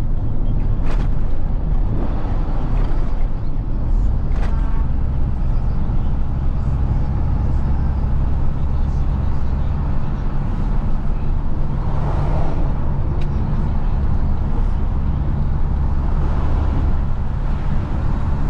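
Isuzu FRR90 truck's diesel engine running steadily while driving, heard from the cab as a low hum. A few sharp clicks come in the first five seconds.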